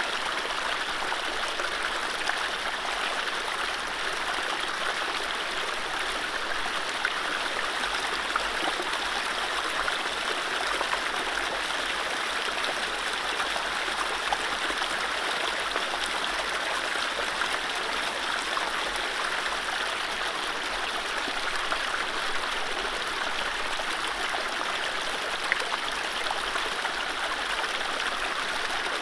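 Mountain stream running over low rapids: a steady rushing and burbling of water, with small splashes flicking through it.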